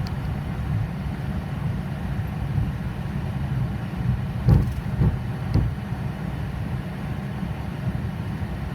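Steady low rumble inside a Boeing 737 cockpit with its engines running during taxi. A few dull thumps come about halfway through.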